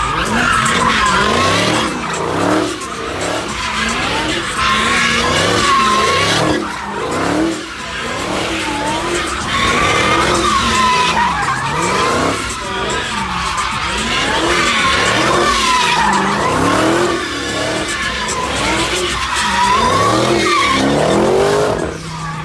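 A car doing burnouts or donuts: the engine revs up and down repeatedly while the tyres squeal and skid.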